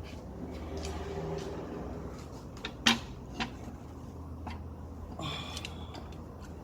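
Scattered clicks and light knocks of car engine parts being handled and fitted by hand, the sharpest about three seconds in, over a faint steady low hum.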